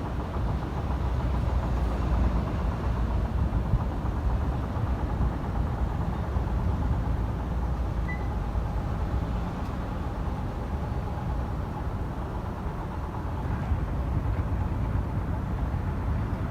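KTMB ETS electric train running, a steady low rumble with a faint whine held steady throughout.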